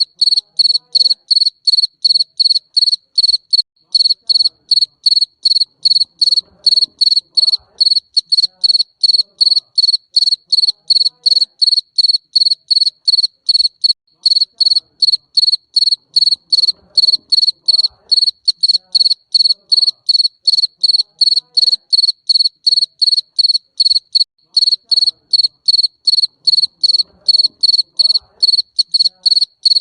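Garden cricket chirping steadily: short, high-pitched chirps repeating evenly at about three a second.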